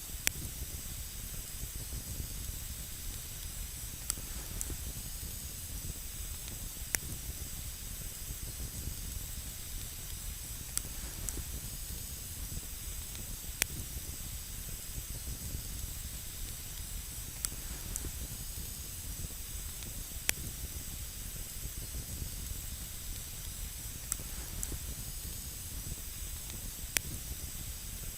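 Campfire burning with a steady hiss, broken every few seconds by a single sharp crackle or pop.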